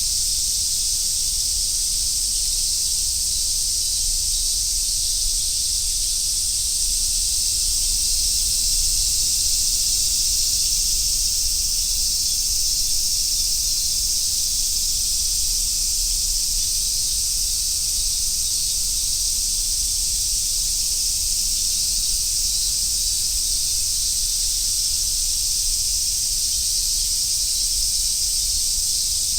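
Chorus of summer cicadas, such as large brown cicadas, singing a dense, steady, high-pitched sizzling drone that does not let up.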